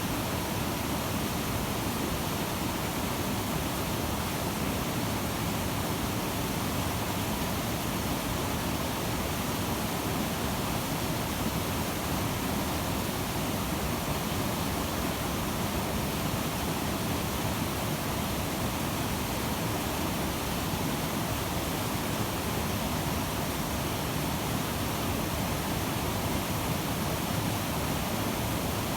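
The South Fork Snoqualmie River rushing steadily, a constant, unbroken wash of water noise.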